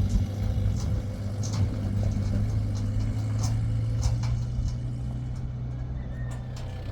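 An engine running steadily with a low hum, with scattered light clicks and knocks over it.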